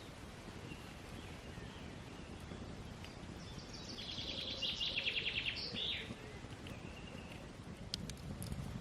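A songbird singing one rapid trilled phrase about four seconds in, with a fainter call a little later, over quiet outdoor background noise. A few light clicks near the end.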